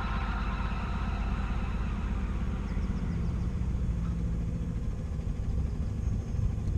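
A sailboat's motor runs steadily as the boat motors along under power, a constant low rumble with a steady hum.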